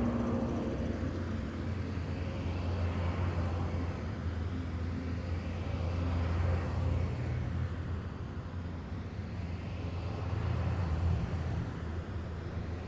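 Heavy military vehicles driving past in a column, their engines rumbling low and steady, the sound swelling and easing as each vehicle goes by.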